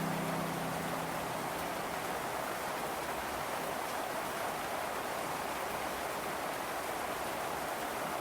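Steady rain falling, an even hiss with no rhythm. A low piano note fades out in the first second or two.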